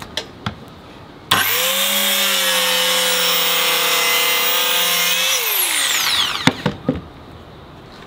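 Dremel compact circular saw starting up suddenly about a second in and running at a steady whine as it cuts through a pine plank. It is then released and spins down with falling pitch. A few knocks of wood being handled follow.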